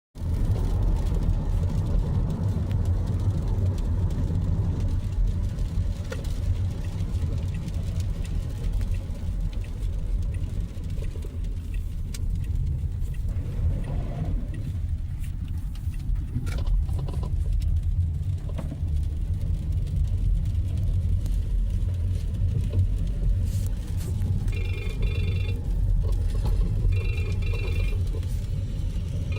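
Steady low rumble of road and engine noise heard inside a moving car. Near the end a phone rings twice.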